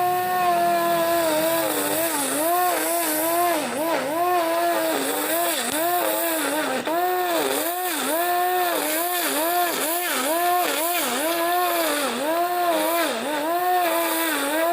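Homemade string trimmer powered by an electric blender motor, running with a high whine whose pitch dips and recovers about twice a second.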